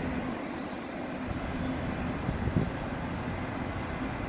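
Distant diesel freight locomotive running: a steady low rumble with a faint hum.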